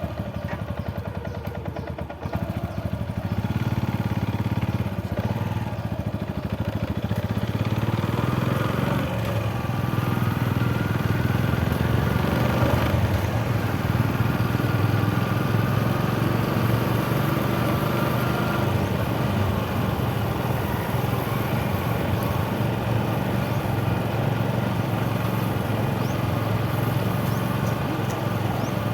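Motorcycle engine running while being ridden. The engine gets louder about two seconds in and then runs steadily.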